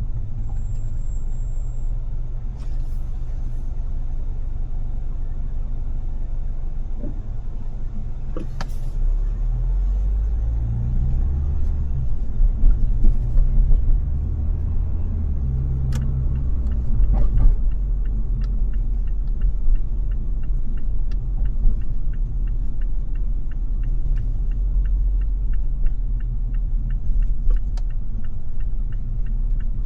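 Car driving in city traffic: a steady low rumble of engine and road noise, swelling a little in the middle, with a few sharp clicks. In the second half a faint, evenly spaced ticking comes in.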